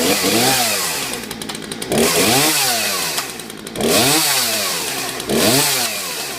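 Chainsaw engine revved up and let back down about four times in a row. Its chain brake is burned out.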